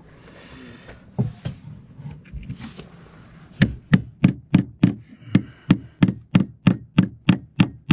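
Hammer driving a nail to fix a fibre-cement artificial slate: a few light taps, then a quick, even run of about three sharp blows a second.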